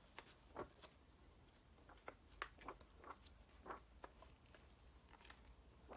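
Faint, scattered crackles and ticks of glossy magazine pages being handled and turned in a binder.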